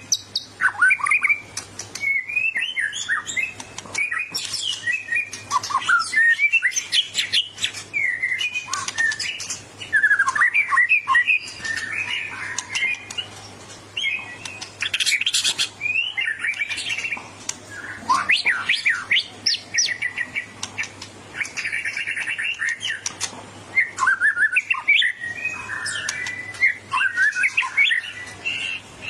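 White-rumped shama (murai batu) singing a long, rapid, varied song of whistles, chirps and fast rattling trills with only brief pauses. It is the combative, territorial song of a bird worked up to fight a rival.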